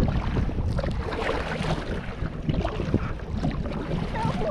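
Water splashing and lapping around a kayak on the water, with wind rumbling on the microphone.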